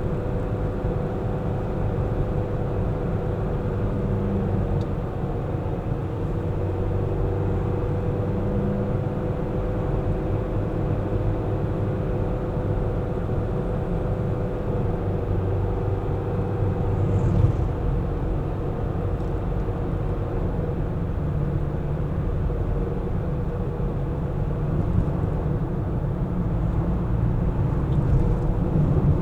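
Car driving in city traffic: a steady low rumble of engine and tyres on the road, with a constant hum.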